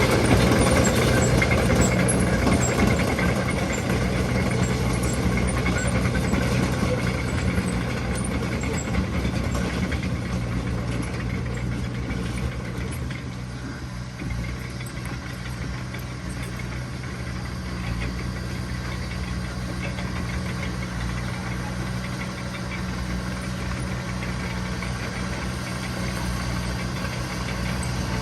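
Diesel engine of heavy earthmoving machinery running steadily with a low, even drone. It grows quieter over the first dozen seconds, then holds level.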